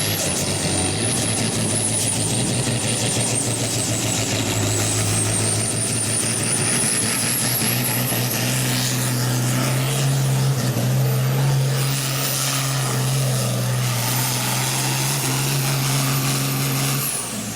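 International Harvester 1466 tractor's turbocharged diesel engine running flat out under load on a pulling sled, with a high turbo whistle that wavers above the engine note. The engine pitch steps up about eight seconds in and the engine cuts off suddenly near the end as the driver lets off at the end of the pull.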